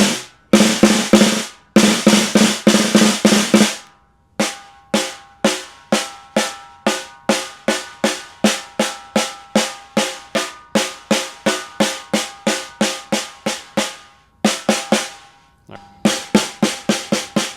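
Ludwig Acrolite aluminum-shell snare drum being struck to check its head tuning: a quick flurry of hits, then steady single strokes at about three a second, each ringing with a sustained overtone, then two short groups of hits near the end.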